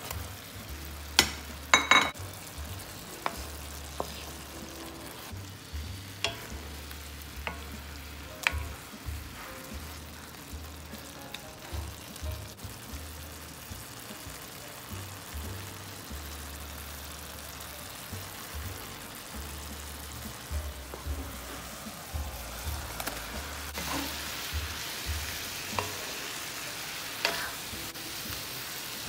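Chicken pieces and sauce frying and sizzling in a cast-iron skillet while being stirred, with sharp knocks of a plate and spatula against the pan, loudest a second or two in. The sizzle grows louder near the end.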